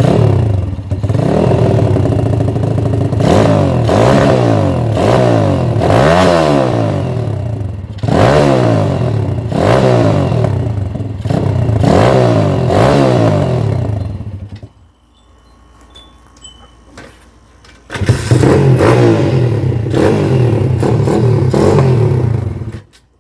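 X Pro Sail 150cc four-stroke pit bike engine being ridden hard, revving up and falling back over and over as it accelerates and eases off. It drops away abruptly about fifteen seconds in, comes back about three seconds later, and cuts off near the end.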